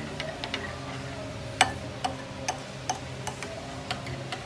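A utensil clicking against a bowl while stirring a sweet and sour sauce: irregular light ticks, with one sharper clack about one and a half seconds in.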